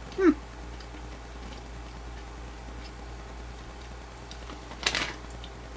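A person chewing a piece of dry beef jerky with her mouth closed: faint, irregular small clicks. A short 'mm' hum falling in pitch comes near the start, and a brief noisy burst about five seconds in.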